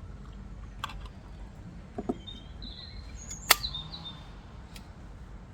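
Wind rumbling on the microphone, with a few sharp clicks, the loudest about three and a half seconds in, and a bird chirping briefly in the middle.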